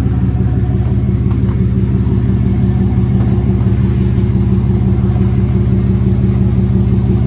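A motor vehicle's engine running at a steady speed, a constant low drone that does not rise or fall.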